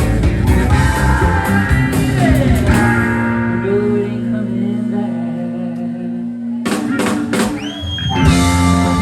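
Live country-rock band playing electric guitar, bass and drums. About three seconds in, the drums drop out under held guitar and bass notes; near the end the drums crash back in with a bent guitar note, and the full band resumes.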